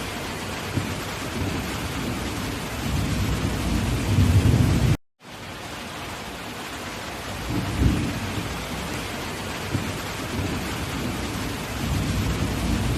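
Heavy torrential rain pouring down in a steady dense hiss, with low rumbles swelling at times. The sound breaks off for a moment about five seconds in, then resumes.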